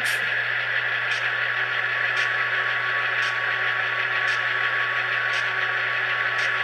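Dynamic brake sound effect from the Tsunami sound decoder in an HO-scale Athearn Genesis GP15T model diesel, played through the model's small speaker. It is a steady rushing hiss with a thin held tone over a low hum, and a faint tick about once a second.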